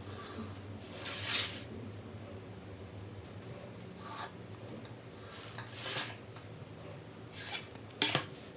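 4B graphite pencil scratching across sketchbook paper in a few separate strokes with pauses between them.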